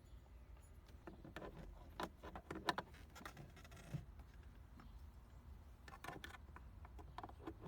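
Faint, scattered small clicks and scrapes of a little pick tool and wires working against plastic interior trim, as the wires are fished out behind a panel. A low steady hum runs underneath.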